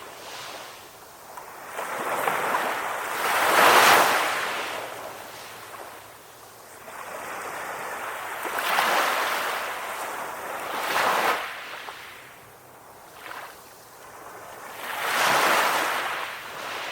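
Calm ocean waves washing in, a hiss that swells and fades about four times, loudest about four seconds in.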